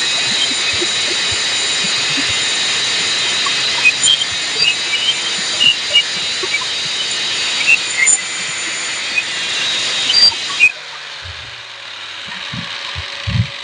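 Electric arc welding on a steel pole: a steady hiss with scattered crackles and pops as the arc burns. It cuts off suddenly about eleven seconds in when the arc is broken, followed by a few light knocks.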